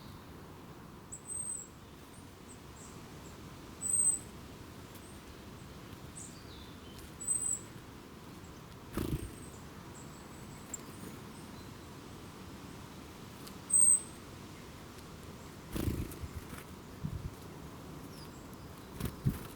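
A small bird giving a short, thin, very high call, repeated about four or five times a few seconds apart. A few dull low thumps fall in between.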